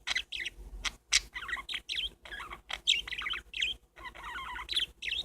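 Several pet parakeets chattering, a steady run of quick chirps and warbles, with a couple of sharp clicks about a second in.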